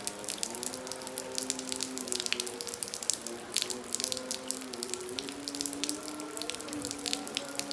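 Heavy rain falling, with many sharp drops splashing and pattering close by over a steady hiss. Behind it a faint melody of held notes steps from pitch to pitch.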